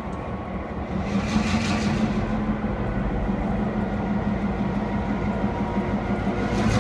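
Heritage diesel locomotives running steadily under power, a low engine drone with a rush of hiss about a second in and again near the end.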